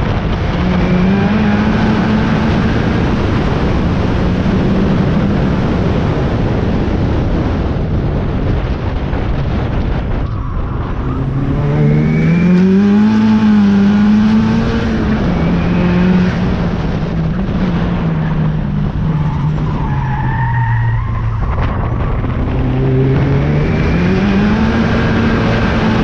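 Turbocharged 4G15 MIVEC engine of a Mitsubishi Lancer driven hard, its note climbing and falling several times as it accelerates, shifts and slows for corners.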